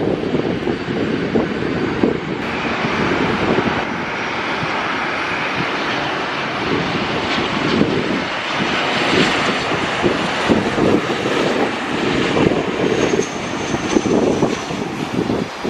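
Jet airliner's engines running loudly as the plane passes: a dense rushing noise with a thin high turbine whine that falls slightly in pitch near the end.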